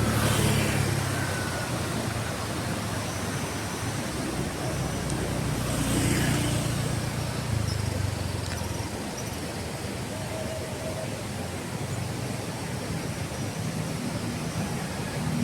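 Street traffic: a steady low engine rumble with vehicles passing close by, the two loudest passes right at the start and about six seconds in.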